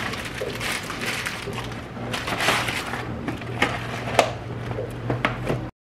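Chewing a crispy fried pizza puff close to the microphone: irregular crunches over a low steady hum, stopping abruptly just before the end.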